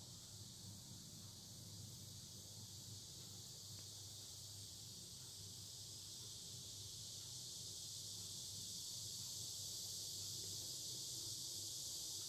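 Cicadas singing in chorus, a continuous high buzzing drone that swells gradually louder over the second half.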